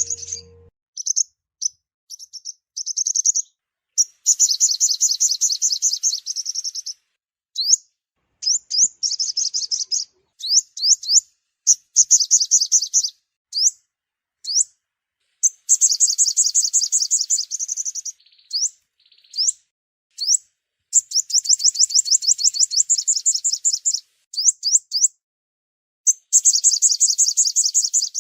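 Sunbird song played as a trapping lure: high, rapid trills of quick downward-sweeping notes in bursts of one to three seconds, with short silences between them.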